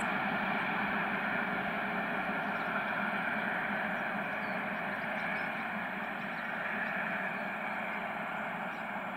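Freight train of loaded open coal wagons rolling away on the rails, a steady rumble and rail noise that slowly fades.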